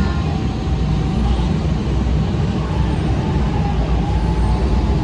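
Steady, loud low engine rumble of road traffic, heavy vehicles among it.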